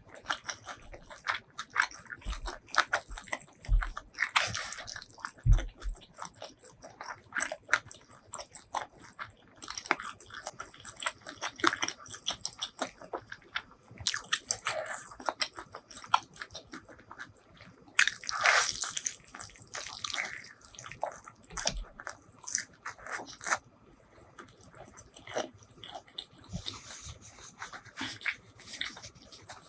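Close-miked eating sounds: irregular biting and chewing with crunching, and a few longer hissy bursts.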